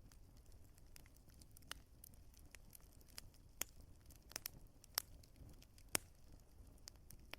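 Wood fire crackling faintly: sharp pops at irregular intervals over a soft, low rumble of the flames, with a few louder pops in the second half.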